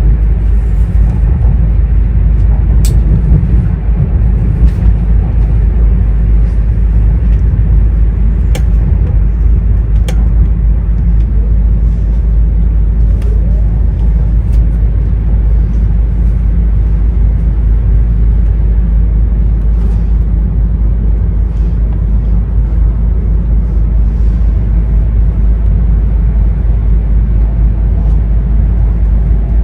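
Running noise inside an E2-series Shinkansen car: a loud, steady low rumble from the train, with a few sharp clicks about 3, 8 and 10 seconds in.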